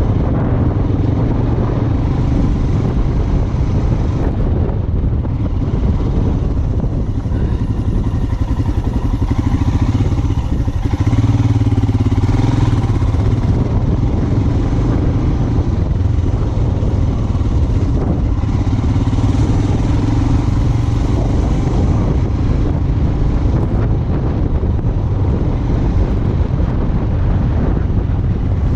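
Royal Enfield Himalayan 411's single-cylinder engine running steadily at low revs off-road, pulling a little harder about eleven seconds in.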